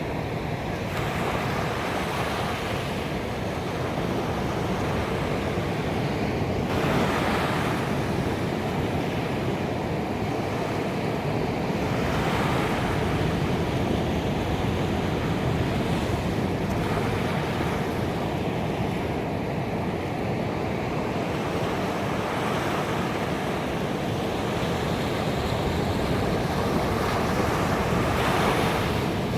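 Ocean waves breaking and washing up a beach in a continuous surf wash, with louder surges of a breaking wave about every five to eight seconds.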